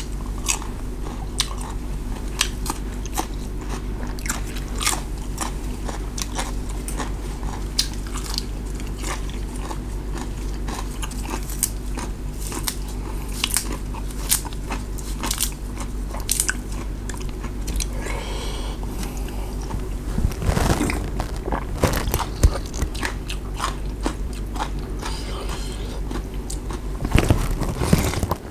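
Close-up chewing and crunching of raw chili and fresh vegetables, with many small sharp crunches and mouth clicks over a steady low hum. Near the end come louder slurps of noodles.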